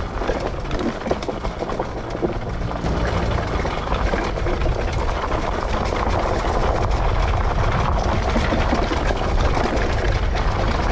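Small two-stroke dirt bike riding along a trail, engine running under a steady haze of wind and ride noise on the microphone.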